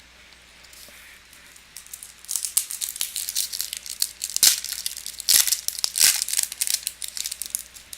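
Crinkling and rustling of a trading-card pack's foil wrapper being torn and handled, a dense run of crackles after a quiet first two seconds.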